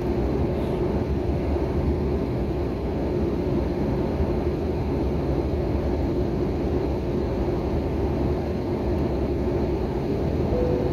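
Steady rumble of a jet airliner's engines and airflow heard inside the passenger cabin, with most of the sound low and even.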